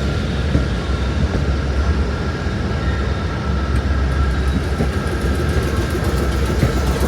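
Electric suburban train standing in the station, its onboard equipment humming steadily with a low drone and faint whining tones.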